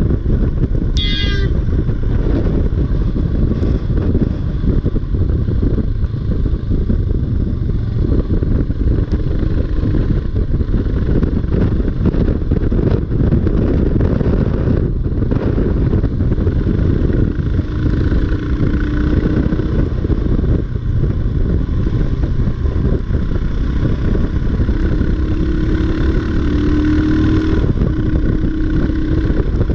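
Motorcycle being ridden, its engine running steadily under a dense rush of low noise. A faint engine tone rises out of it twice in the second half.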